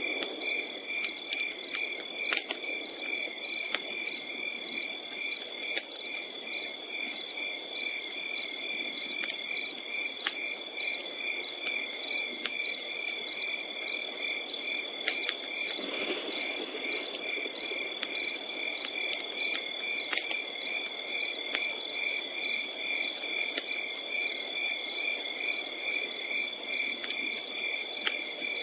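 Crickets chirping in a steady rapid pulse over a continuous high insect drone, with sharp crackles of a wood campfire popping irregularly throughout and a soft low hiss under them.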